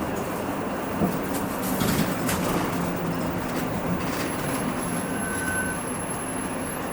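Interior running noise of a Hino Rainbow II one-step diesel bus under way: a steady low rumble of engine and road, with small rattles and clicks from the cabin and a faint high whine from about four seconds in.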